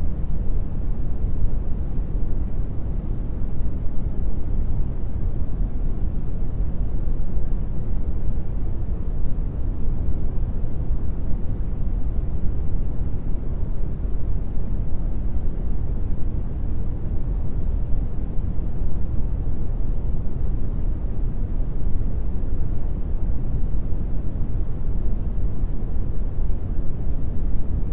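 Steady brown noise: an even, deep rushing hiss with most of its weight in the bass and little treble.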